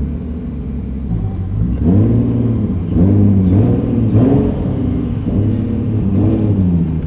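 Car engines revving in repeated blips, the pitch rising and falling about four times over a steady low engine idle, in slow traffic.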